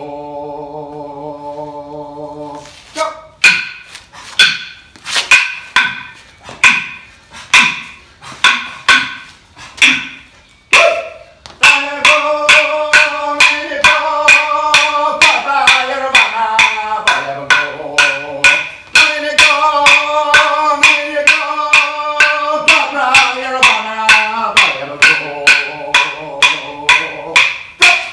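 Aboriginal song in the Sydney language: a man chanting over steady knocks of wooden clapsticks. A held sung note fades out near the start, the sticks then knock alone at about one and a half a second, and from about a third of the way in the voice comes back over a faster beat of about two and a half knocks a second.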